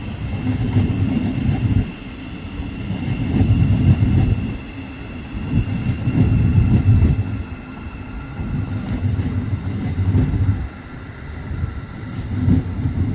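Thameslink Class 700 electric multiple unit moving slowly through the station: a low rumble that swells and fades every couple of seconds, with a faint steady high whine above it.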